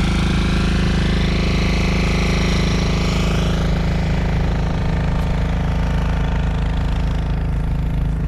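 Quad bike engine running steadily with a low, even drone, with a rushing noise on top that dies away about three and a half seconds in.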